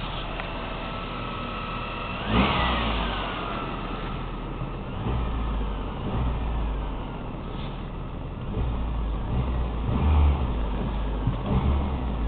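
The 1994 Toyota Camry LE's 2.2-litre DOHC 16-valve four-cylinder engine, still cold from a freezing night, idling and blipped through several quick revs. The first rev rises sharply about two seconds in and falls back, and more swells follow later.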